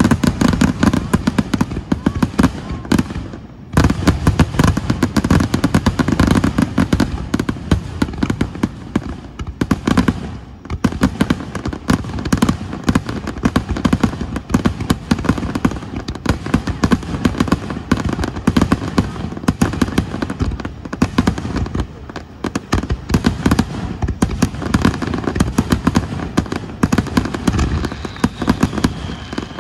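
Aerial fireworks going off in a dense, rapid barrage of bangs, with two brief lulls, about three and ten seconds in.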